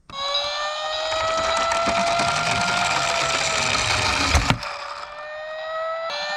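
Emergency-vehicle siren wailing, its pitch rising slowly and falling again, over the rattling rush of a miniature toy car rolling down a slope. A sharp knock about four and a half seconds in, after which the rolling stops and the siren keeps on alone.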